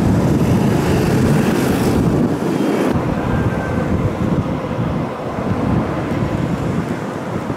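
Tokyu electric commuter train running over a viaduct: a steady rumble of wheels on rail that eases slightly as it moves away, with a higher hiss that drops out about three seconds in.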